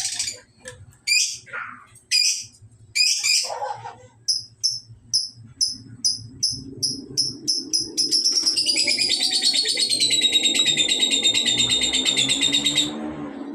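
Pet cockatiels calling: a few loud harsh calls, then a run of short high chirps about two a second, then from about eight seconds in a long, loud warbling whistle song that stops shortly before the end.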